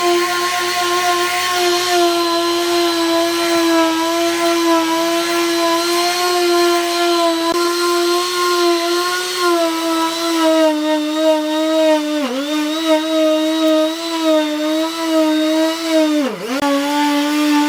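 A handheld electric power tool running steadily with a high motor whine, its pitch dipping briefly twice in the second half as it bogs down under load.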